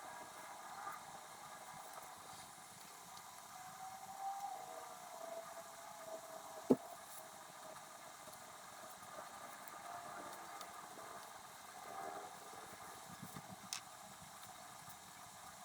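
Pen scratching on paper, played back sped up so it sounds like a high, thin hiss with wavering squeaks, and one sharp click about seven seconds in.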